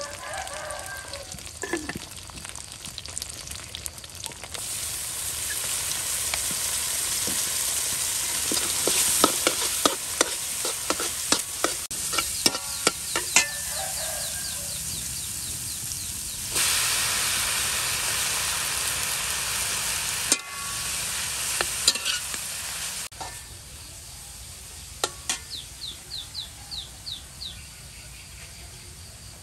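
Beaten egg sizzling in hot oil in a steel wok while a metal spatula stirs and breaks it up, scraping and knocking against the pan. The sizzle jumps louder and softer abruptly several times, and near the end it is quieter with a run of light clinks.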